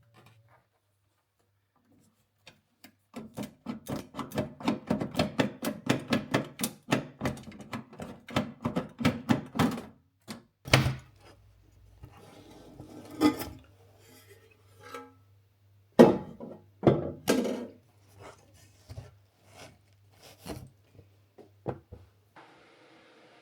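A quick run of light knocks on wood, about five a second for some seven seconds, followed by a few scattered louder knocks and clatters.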